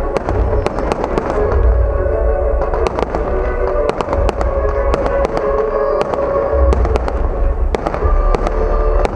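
Fireworks display: a rapid, irregular series of sharp bangs and crackles from bursting shells, with deep booms coming and going, over music with sustained notes.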